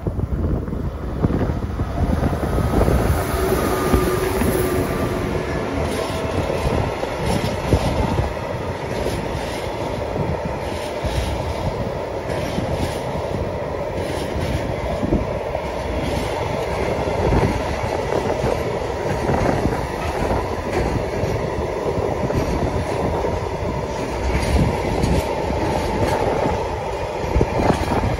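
Long electric freight train passing close by: an ÖBB locomotive hauling container flat wagons, the wheels running and clacking steadily over the rails. A faint whine sounds briefly a few seconds in.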